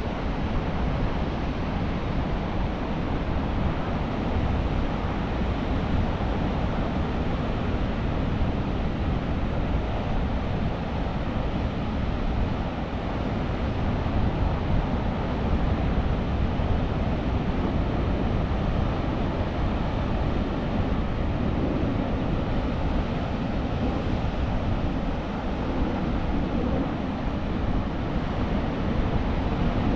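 Steady rush of Atlantic surf along the shore, mixed with wind buffeting the microphone as a low, even rumble.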